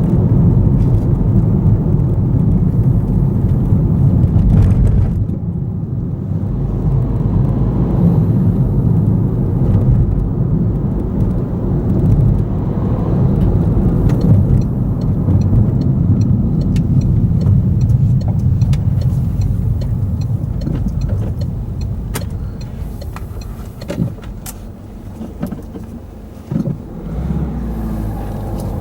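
Road vehicles running over or waiting at a level crossing, a steady low rumble of cars that eases off near the end, with a few short clicks and knocks in the last several seconds.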